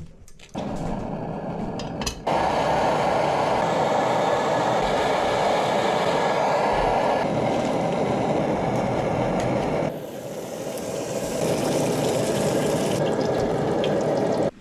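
Water running steadily into a container as it is filled. The rush starts about half a second in, grows louder about two seconds in, and changes tone around ten seconds in.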